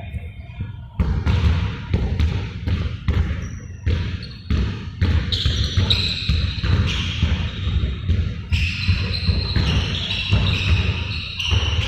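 Several balls bouncing repeatedly on a hard floor in a large hall, irregular thuds overlapping throughout, with high short squeaks joining in from about five seconds in.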